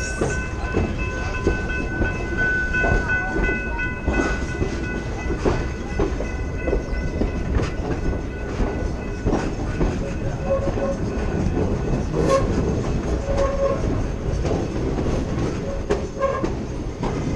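Passenger train rolling downhill on its own rails: a steady rumble with clicks from the wheels over rail joints. A steady high-pitched whine runs through the first five seconds or so, and brief squeals come several times later on.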